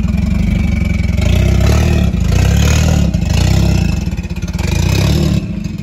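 Turbocharged Honda D16Y8 four-cylinder engine running as the Civic is driven off, its rumble rising and falling with the throttle. It is untuned and kept out of boost.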